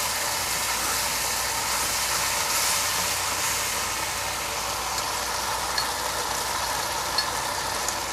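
Minced pork sizzling steadily in a little sauce in a hot wok: an even frying hiss.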